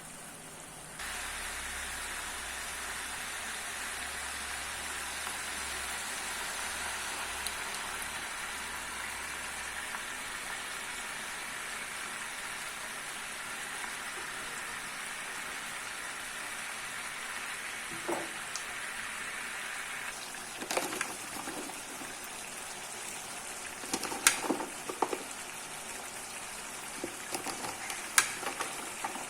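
Food sizzling in hot oil in a pan: a steady hiss that starts suddenly about a second in. Several sharp clinks and knocks come in the second half.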